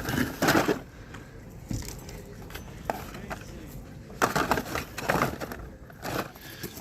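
Die-cast toy cars clinking and rattling against each other as a box of them is sorted through by hand, in two short bursts: one at the start and another about four seconds in.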